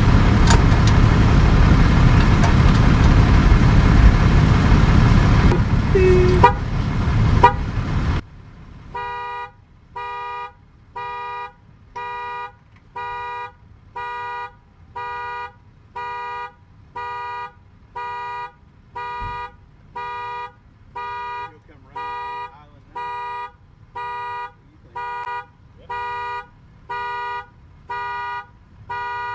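A loud steady rumble and hiss cuts off about eight seconds in. Then a phone rings, an electronic beeping tone repeating a little more than once a second.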